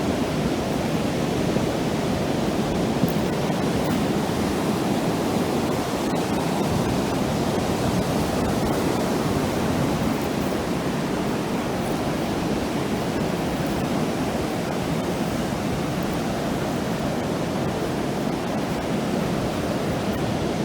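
Ocean surf breaking and washing up the beach: a steady, unbroken rush of water.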